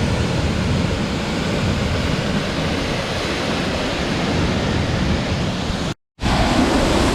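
Chania Falls waterfall: a steady, loud rush of falling water. It cuts out completely for a moment about six seconds in.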